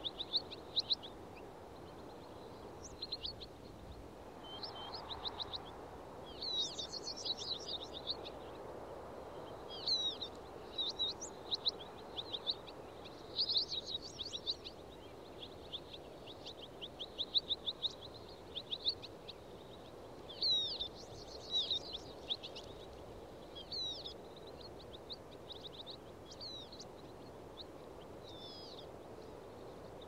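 Small songbirds chirping and singing in quick trills of repeated high notes, calling back and forth all through, over a steady low background rush of outdoor ambience.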